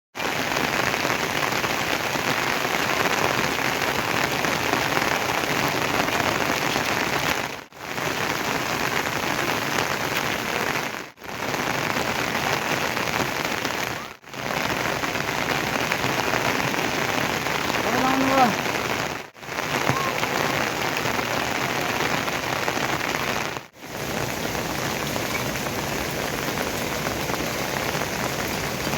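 Steady rain falling, an even hiss that drops out briefly five times. About two-thirds of the way through there is a short faint pitched call.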